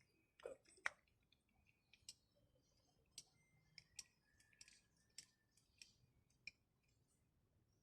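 Faint scattered clicks and light taps, roughly one every half second, from small parts of a car's manual window regulator being handled. A couple of faint short squeaks come in between the clicks.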